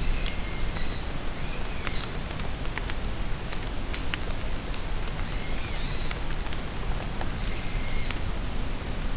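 Steady rain falling in a forest with scattered drips, and a songbird singing short high phrases four times, the last near the end.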